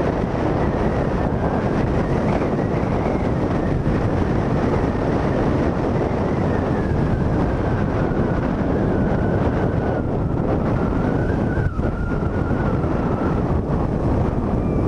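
Motorcycle riding at road speed, heard as heavy wind rushing over the action-camera microphone. Under it runs a faint steady whine that slowly drops in pitch.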